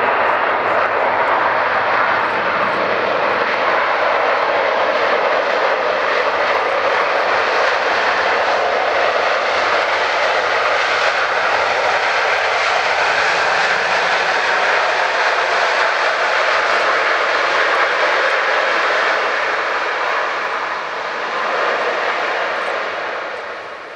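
Jet airliner engines passing close by, a loud steady noise that eases off over the last few seconds as the aircraft moves away.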